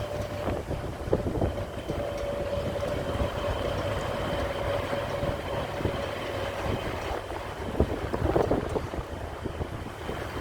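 Jet airliner's engines running during takeoff: a steady rumble with a held whine, and wind buffeting the microphone.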